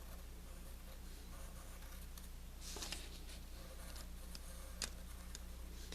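Faint scratching of a drawing tool on paper, a few short strokes about three seconds in and a brief tick near the end, over a steady low hum.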